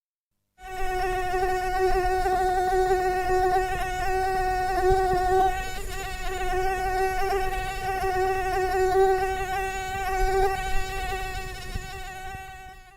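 A continuous buzzing drone held at one steady pitch with a slight waver, starting about half a second in and fading out near the end.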